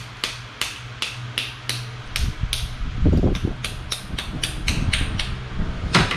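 Cooked crab shell being cracked by striking it with a metal spoon: sharp knocks about three a second, heavier around the middle, over a steady low hum.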